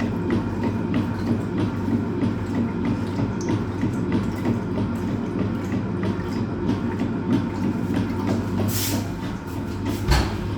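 Hoover Automatic 820 top-loading washing machine running a full load, its motor humming under a steady, regular churning rhythm of the agitator working the water and clothes. A short hiss comes near the end, then a single thump.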